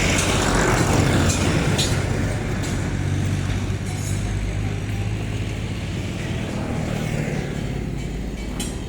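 Indo Farm 3048 DI tractor's diesel engine running loud and steady, rising sharply in level at the start.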